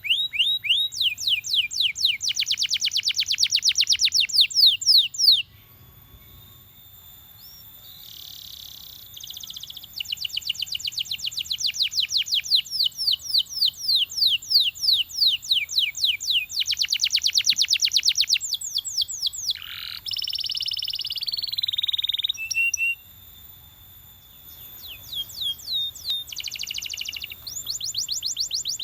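Belgian canary singing: fast trills of repeated high, downward-sweeping notes, delivered in long phrases with short pauses between them, and a harsher held note about two-thirds of the way through.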